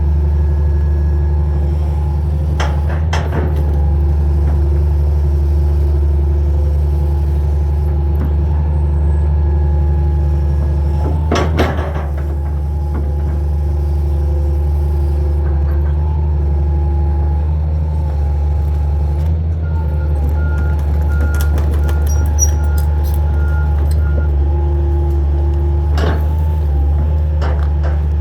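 Hitachi 225 excavator's diesel engine running steadily under load with a hydraulic whine, broken by several knocks and clunks of the bucket working debris. A short run of beeps, about two a second, sounds about two-thirds of the way through.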